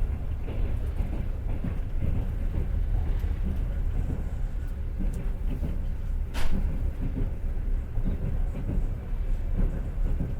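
Passenger train running along the track, heard from inside the carriage: a steady low rumble of the wheels on the rails, with one sharp knock about six seconds in.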